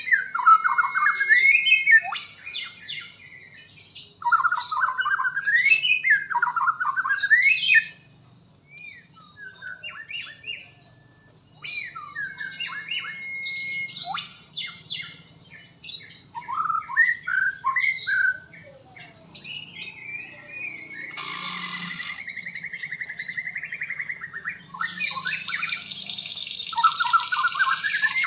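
White-rumped shama (murai batu) singing: loud rising whistled phrases repeated every couple of seconds, mixed with short chirps, then harsh buzzy rattling passages about three-quarters of the way through and again near the end.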